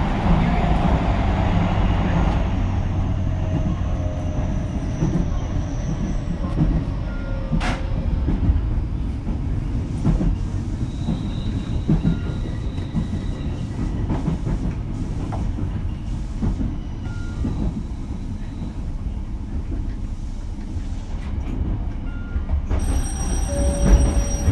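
Interior running sound of a JR Kyushu BEC819 series battery electric train: a steady low rumble of wheels on rail, with a faint motor whine falling in pitch over the first several seconds. Short squealing tones come through now and then, and a cluster of high tones near the end.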